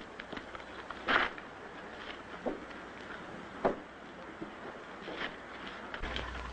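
Scattered light knocks and scuffs over a steady hiss, with a few louder ones about a second, two and a half and three and a half seconds in.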